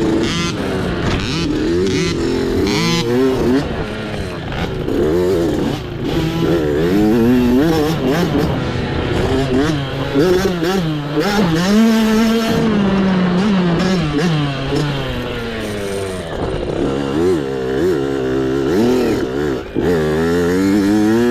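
Mini dirt bike engine revving up and down over and over as the throttle is opened and rolled off while riding a hare scramble trail.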